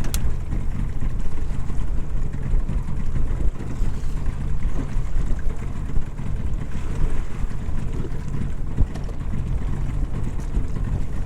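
Steady low rumble of a small motorboat at sea.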